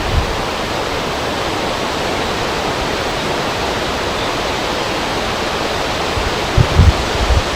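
Steady rushing wind at a river, an even hiss without breaks. Near the end, low gusts start buffeting the microphone.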